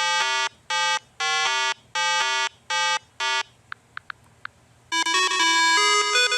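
A vehicle horn honks about six times in a quick rhythmic pattern. A few faint clicks follow, and about five seconds in a bright chiming jingle starts.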